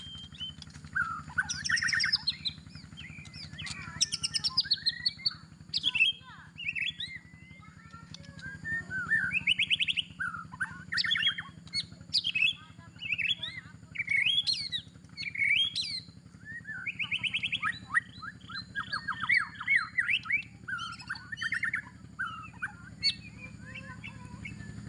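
A songbird singing a long, varied song: bursts of whistled phrases, rapid trills and quick upward sweeps with short pauses between them, over a steady low hum.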